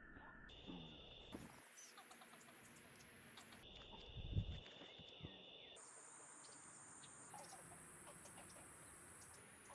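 Faint backyard bird ambience: scattered small bird chirps over a steady high-pitched hum that jumps abruptly to a new pitch every second or two, with one soft low thump about four seconds in.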